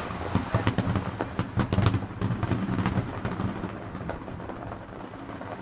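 Fireworks going off: a rapid string of sharp cracks and bangs over the first couple of seconds, thinning out into a fading rumble with a few scattered pops.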